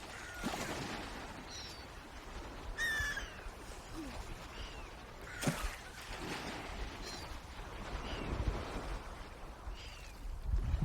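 Swans calling: about eight short calls that fall in pitch, spaced through, one near the three-second mark stronger and fuller than the rest. Under them runs a steady rushing background, with a low rumble near the end.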